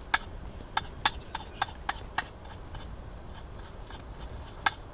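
Strong wind rumbling low and steady, with a run of sharp, irregular clicks over it, most of them in the first couple of seconds and one more near the end.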